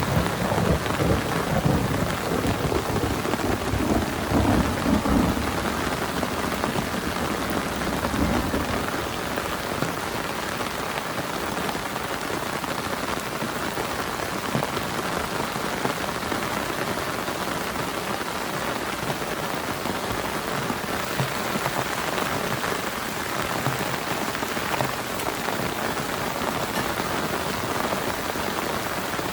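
Heavy rain pattering steadily, with a low thunder rumble through the first several seconds that fades out after about nine seconds.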